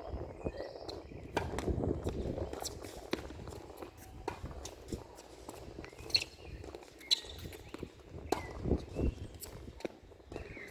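Tennis ball impacts and footsteps on a tennis court: sharp knocks at irregular intervals over a low rumble.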